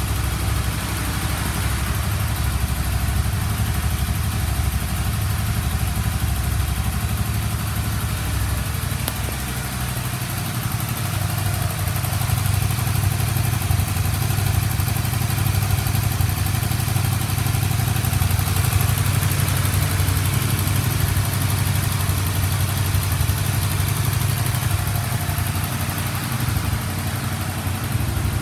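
Honda VTR250's 250 cc V-twin engine idling steadily. About ten seconds in, its low note shifts slightly and then holds.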